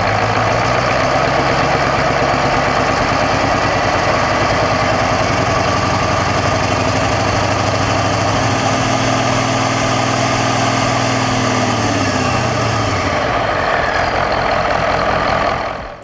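A large old engine running steadily and loudly. About twelve seconds in its low tones sag in pitch and fade, and the whole sound drops off sharply near the end.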